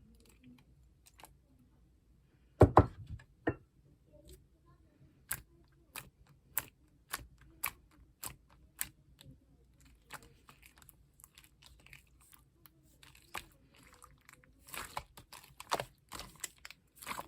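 Slime being pressed and folded by hand, giving off sharp clicks and pops. There is a loud thump about three seconds in, then a steady run of clicks about twice a second, and denser crackling near the end.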